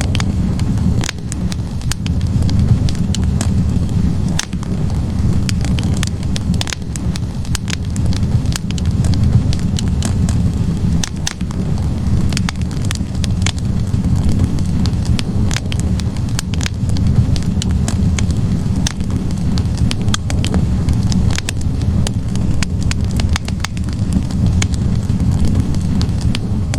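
Wood fire burning in a fireplace: a steady low rumble of flames with frequent sharp crackles and pops from the burning logs, coming at irregular moments.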